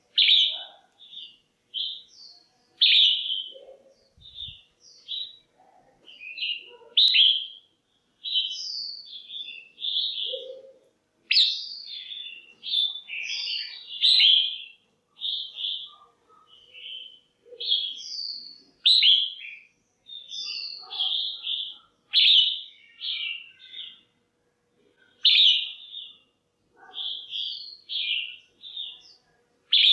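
Female red-whiskered bulbul calling: a continual run of short, bright chirping notes, with louder phrases every couple of seconds.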